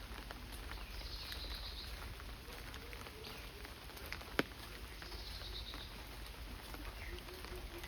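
Monsoon rain pattering steadily, with scattered drips and one sharp knock about halfway through. A short high chirping call sounds twice, near the start and again past the middle.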